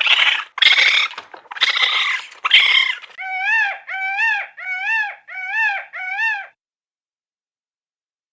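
An animal making a few short rasping, hissing sounds, then five short whining calls in a row, each rising and falling in pitch, before it goes silent.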